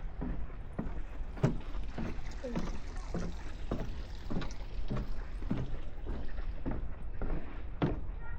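Footsteps of a person walking at a steady pace, about two steps a second, over a low steady rumble.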